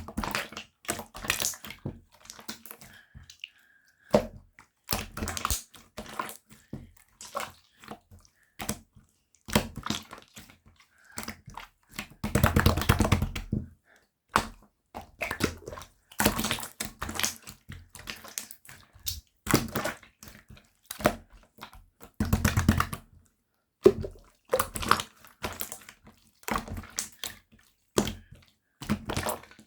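Clear slime being squeezed, stretched and pressed by hand: irregular wet squelches and sticky clicks, with two longer, louder squishes, one about halfway through and one later on.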